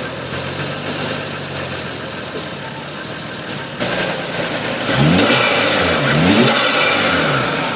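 Nissan Laurel C35's RB25 straight-six idling, then blipped twice on the throttle, the revs rising and falling back to idle each time.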